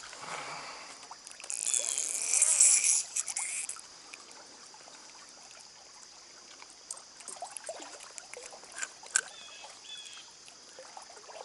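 Stream water running, with a louder burst of splashing about one and a half seconds in that lasts about two seconds before the flow settles back to a low steady rush with a few faint clicks.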